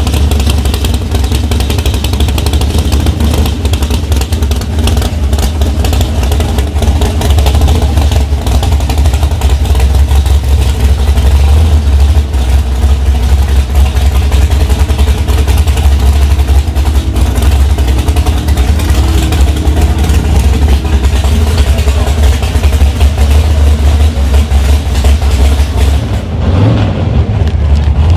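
High-powered drag-racing engine running loud and steady, a deep rumble with a fast crackle from the exhaust. About two seconds before the end the sound briefly loses its top end.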